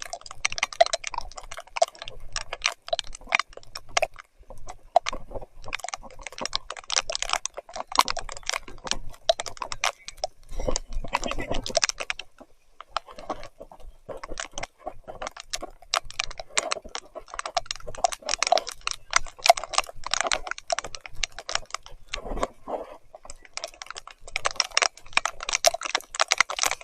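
Mountain bike ridden along a muddy trail in heavy rain: a dense, irregular clatter of small clicks and crackles, with a quieter patch about halfway through.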